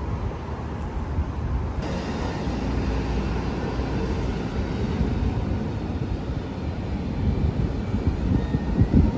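Steady low rumble of passing vehicle traffic, with wind on the microphone; it swells to its loudest near the end.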